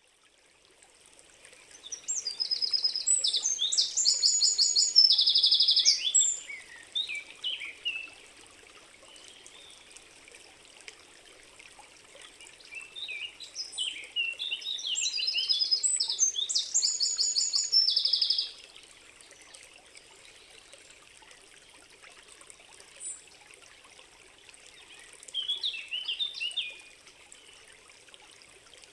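A songbird singing fast, trilled phrases, two long songs of about five seconds each and a short one near the end. Under it runs a steady faint wash of a stream.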